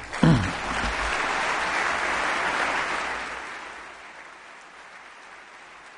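Audience applauding at the end of a speech: the clapping builds up just after the start, holds for a couple of seconds, then dies away about three to four seconds in, leaving only faint room noise.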